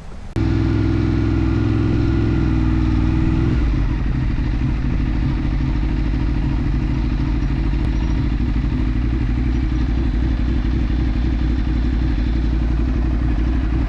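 Ducati 848's V-twin engine running steadily, cutting in abruptly about half a second in; its low note shifts slightly about three and a half seconds in.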